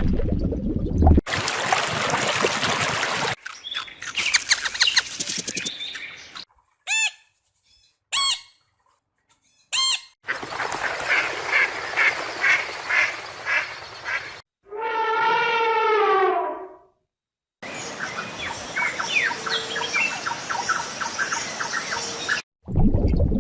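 A string of different animal calls in separate cuts, most of them bird-like: three short chirps, a run of quick calls about two a second, then one long pitched call lasting about two seconds that falls slightly, then many quick calls.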